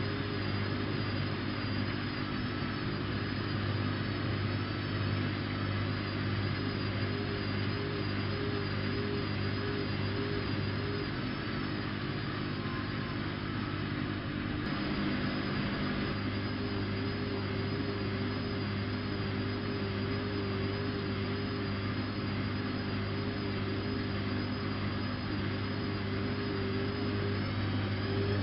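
Bosch WFK 2431 front-loading washing machine running, its motor turning the drum with a steady hum and a slightly wavering whine.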